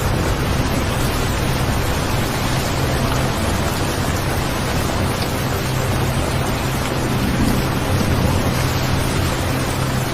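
Steady rain recording: an even hiss across the whole range, with a steady low rumble beneath it.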